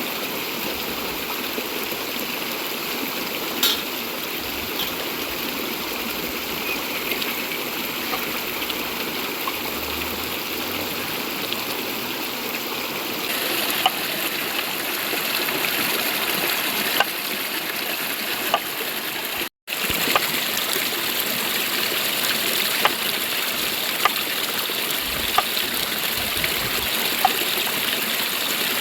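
Clear river water running steadily over rocks, a dense rushing and trickling noise, with scattered sharp clicks and taps on top. The sound cuts out for an instant about two-thirds of the way through.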